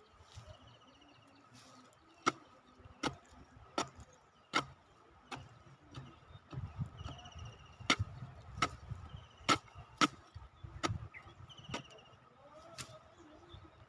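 A hand tool chopping into earth and roots with sharp, regular strikes, about one every three-quarters of a second. The strikes come in two runs with a short pause between them, typical of digging out a shrub's root ball.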